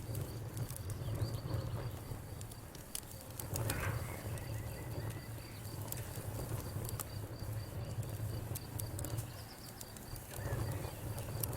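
Wood fire crackling, with scattered sharp pops over a low steady rumble, and an insect chirping steadily in a high, pulsing tone behind it.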